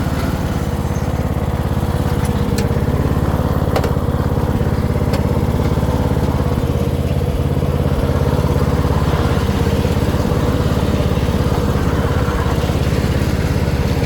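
Troy-Bilt riding mower's engine running steadily, warming up after a choked cold start.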